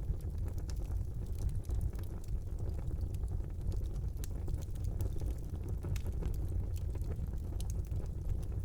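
Wood fire burning in a brick fireplace: a steady low rumble of the flames with irregular sharp crackles and pops from the burning logs.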